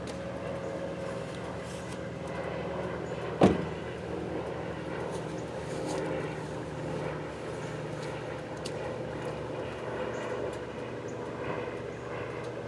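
A motor vehicle's engine running steadily, with one sharp knock about three and a half seconds in.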